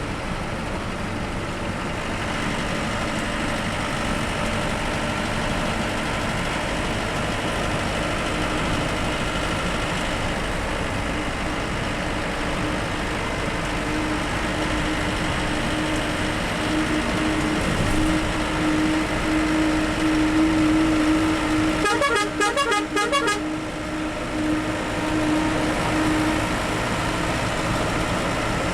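Bus running at road speed, with a steady engine whine that grows stronger in the second half. About three-quarters of the way through, a horn sounds in a quick series of rapid pulses lasting over a second.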